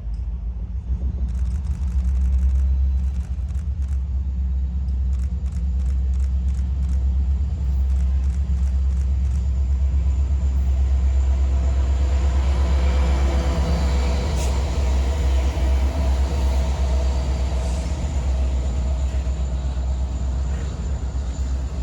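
Norfolk Southern EMD GP60 and SD60E diesel locomotives pulling a long double-stack intermodal train under load: a loud, steady, deep engine roar, with some clearer engine tones coming in around the middle.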